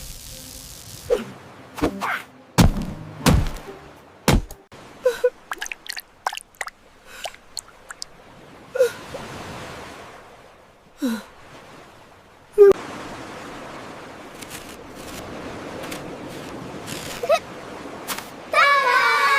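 Cartoon sound effects: a quick string of knocks, pops and short swooping tones, then a steady rushing, blowing noise that starts suddenly and lasts several seconds, and a character's gasp near the end.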